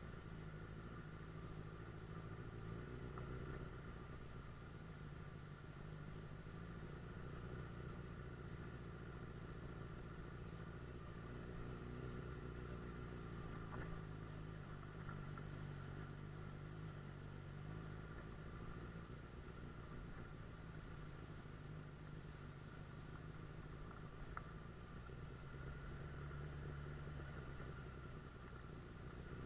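Suzuki GSF 600 Bandit S motorcycle's inline-four engine running steadily on the move, a constant low drone with no big changes in speed.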